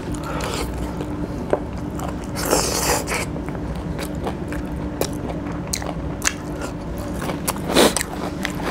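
Close-up chewing and biting of chicken pieces in curry eaten by hand, with many short wet mouth clicks and crunches.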